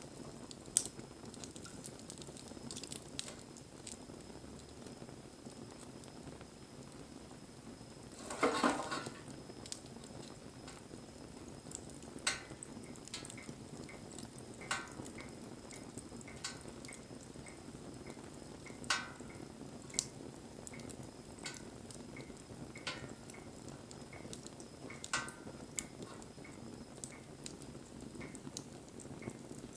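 Wood fire crackling: scattered sharp pops and snaps over a low steady hiss, with a denser burst of crackling about eight seconds in.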